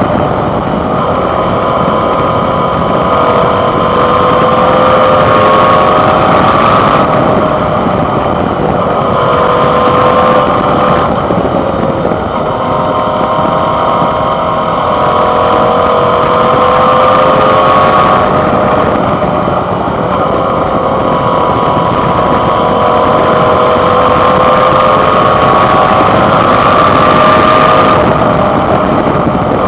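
Suzuki V-Strom 650 XT's V-twin engine running under way, heard close up through a handlebar-mounted camera's microphone, its note climbing slowly and falling back several times. A steady rush of wind and road noise runs under it.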